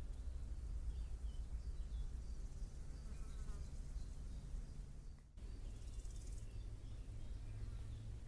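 A fly or similar insect buzzing in a steady low hum, with faint bird chirps in the background. The sound drops out for a moment about five seconds in.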